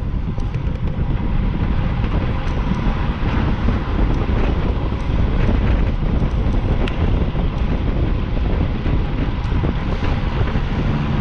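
Wind buffeting the microphone of a camera on a moving bicycle, a steady low rumble that covers everything else.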